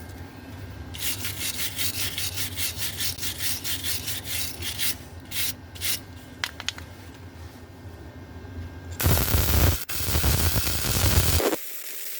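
Hand wire brush scrubbing steel in quick back-and-forth strokes, about four a second, to clean the metal between weld passes. Several seconds later a 120-volt flux-core welder lays a crackling bead for about two and a half seconds and cuts off abruptly.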